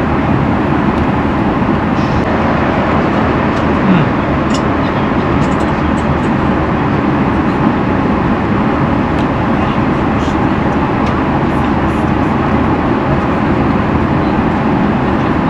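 Steady cabin noise of an Airbus A350 airliner in flight, a constant even rush at a level that does not change, with a few faint light clicks over it.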